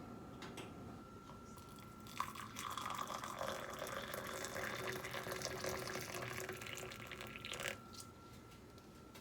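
Kitchen tap turned on about two seconds in, water running into the sink for about five seconds, then shut off.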